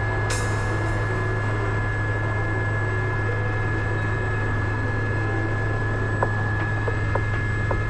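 Steady cabin noise of an Aérospatiale Gazelle turbine helicopter in flight: a constant low rotor-and-engine drone with a steady high whine over it. There is a short hiss just after the start and a few faint clicks later on.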